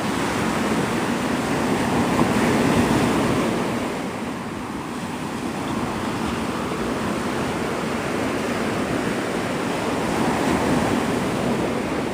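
Gulf of Mexico surf washing onto a sandy beach: a steady rush of breaking waves that swells a little about two to three seconds in and eases back after.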